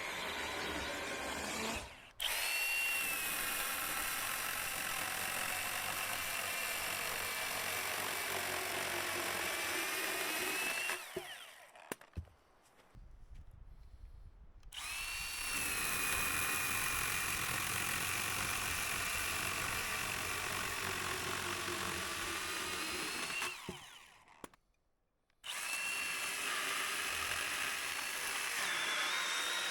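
Handheld electric power tool running in three long stretches with two pauses, its motor whine climbing each time it starts up.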